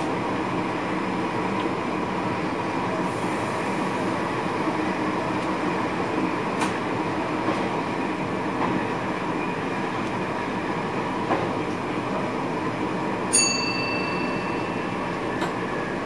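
A passenger train running along the track, heard inside the driver's cab: a steady rolling rumble with a few faint clicks. Near the end comes a sharp click and a brief high ringing tone.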